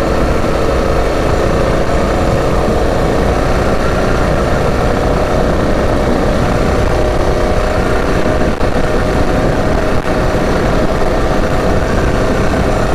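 Predator 212 single-cylinder four-stroke engine on a mini bike running at a steady cruising speed while riding, still being broken in. Heavy wind buffeting on the microphone rumbles under the engine note.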